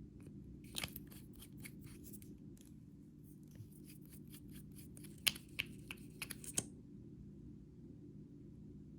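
Slime being worked by hand, giving a run of crisp sticky clicks and crackles for about six seconds, with the loudest pops in a cluster near the end, over a steady low hum.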